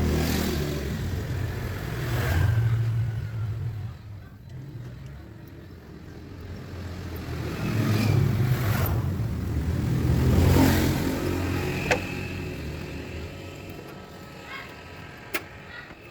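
Motor vehicle engine rumble that swells twice and then fades away, with two sharp clicks near the end.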